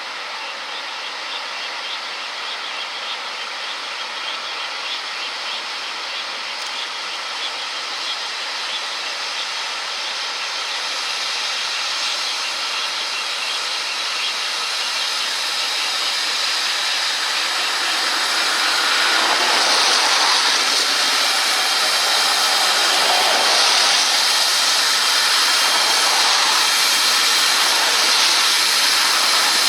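Large Prairie steam tank locomotive approaching, a hissing, rushing train sound that grows steadily louder and is loudest over the last ten seconds.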